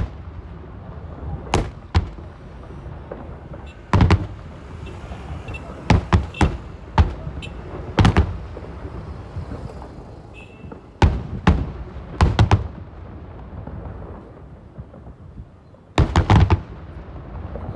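Aerial fireworks shells bursting overhead: a series of sharp booms, one every second or two, some in quick pairs, with a tight cluster of bursts near the end.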